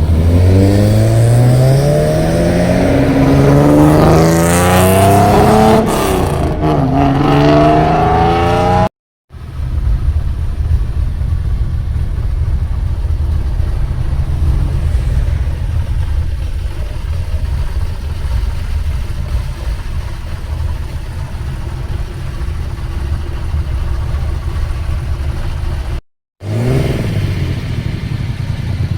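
Old Nissan Skyline with a very loud exhaust, revving up hard for several seconds as its pitch climbs. After a cut it runs on with a steady low exhaust rumble, and near the end it revs up again.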